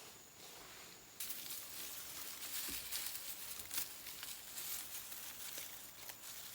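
Rustling and crackling that starts abruptly about a second in, with many scattered sharp clicks.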